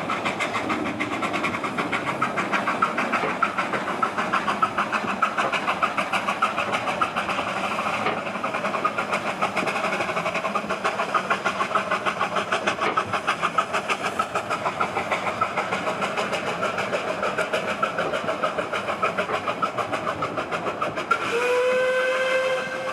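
Narrow-gauge steam locomotive working hard, a fast, steady beat of exhaust chuffs. Near the end a steam whistle sounds over it.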